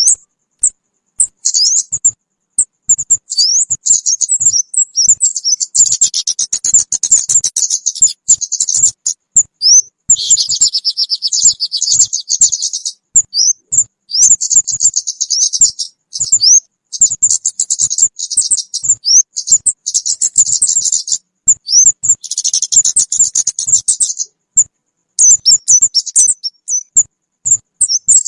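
Kemade bird lure call: rapid, high-pitched chirps and dense chattering trills, coming in bouts of a few seconds with short gaps between them.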